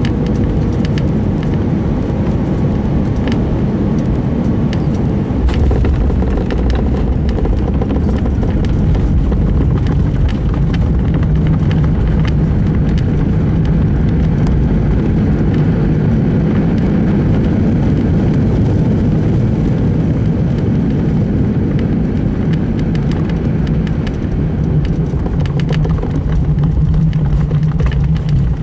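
Steady rumble of engines and wheels inside an Airbus A319 cabin on the runway after landing. The low rumble grows louder about five seconds in, with a few faint clicks.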